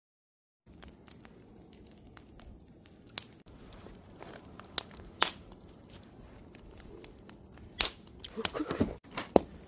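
Wood campfire crackling, with sharp pops from the burning wood every second or two, starting after a moment of silence.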